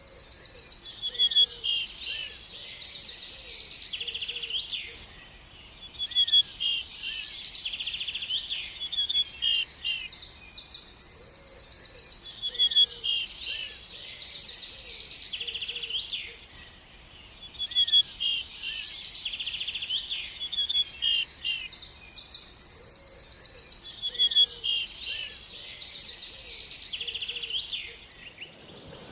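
A songbird singing a long, complex song of rapid high trills and chirps. The same phrase repeats about every eleven seconds, with short pauses between.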